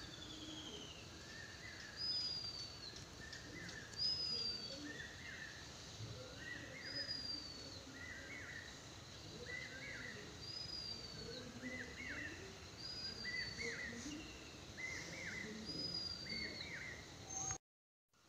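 Birds calling over and over: a high, falling whistled note about every one and a half to two seconds, with a lower repeated chirp between, over faint outdoor background noise.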